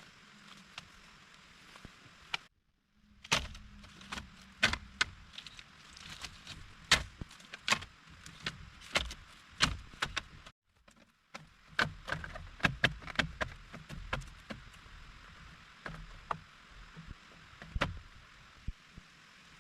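A run of irregular sharp knocks and clicks from handwork, some loud, over a faint steady hiss. The sound cuts out completely twice, each time for under a second.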